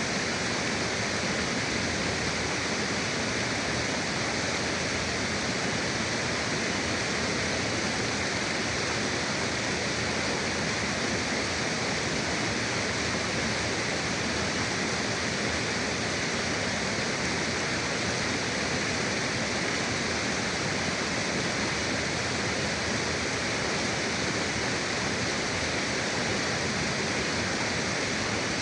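Forest river flowing, a steady, even rush of water with no change.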